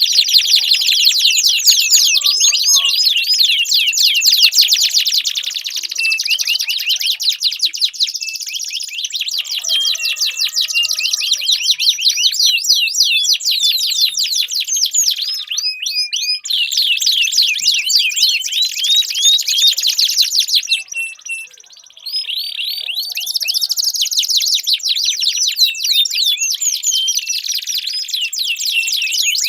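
Domestic canaries singing long, continuous songs of rapid high trills and rolling runs of repeated notes, with a brief lull about three-quarters of the way through.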